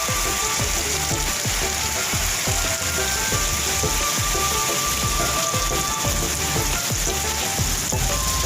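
Steady rain falling and pattering on surfaces, an even hiss with no let-up. Faint short tonal notes and a thin steady tone sound underneath it.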